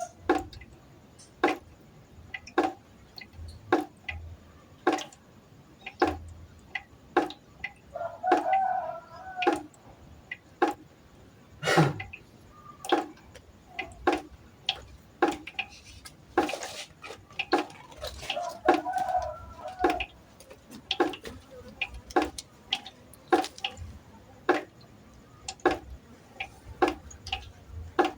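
Water drops falling into a pot in a steady drip, somewhat under two drops a second. About a third of the way in there is one heavier knock. A short pitched call is heard twice.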